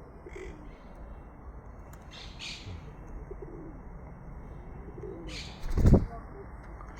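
Birds calling: a few low, curving cooing calls and some short, high chirps, with a loud thump about six seconds in.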